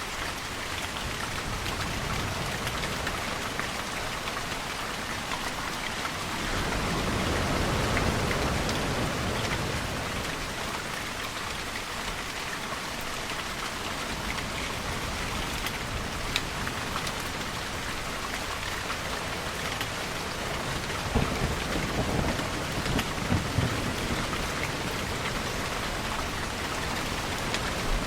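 Steady rain falling, with distant thunder: a long rumble swells about a quarter of the way in, and a cluster of sharper cracks and rumbles comes about three quarters through.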